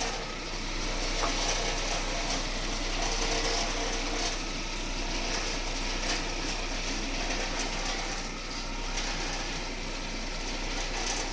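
A Russian-made car running with a steady rattling clatter from somewhere underneath it, a noise the owner cannot trace.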